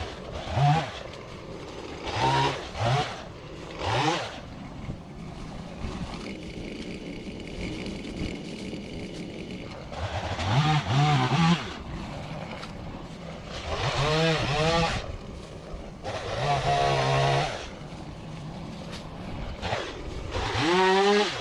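An engine revved in about eight short bursts of about a second each over a steady running sound, its pitch rising and falling with each rev.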